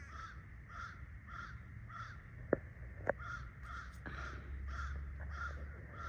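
A flock of birds calling over and over, about one and a half calls a second, with two sharp clicks a little over halfway through.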